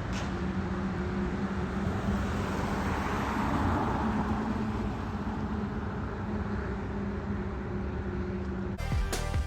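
Fire engine driving by at reduced speed, its engine running steadily and growing louder about three to four seconds in as it passes. Music cuts in near the end.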